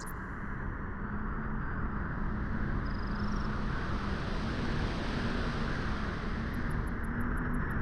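Wind blowing steadily, a dense rushing with low rumble that swells a little after the first second. There is a faint high chirp about three seconds in.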